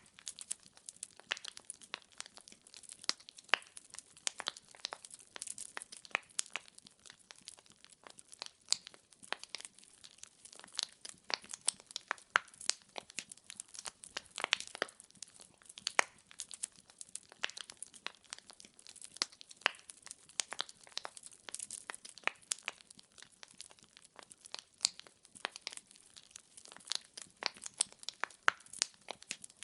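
Wood fire burning in a fireplace, with logs crackling and popping in many irregular sharp snaps over a soft hiss.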